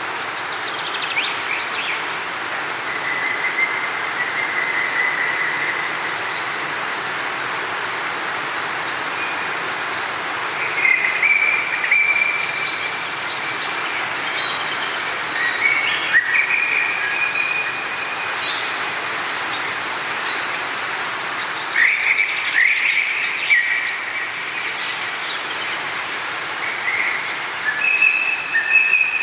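Steady rush of running water with small birds chirping and trilling over it; the calls come in several clusters, busiest in the last third.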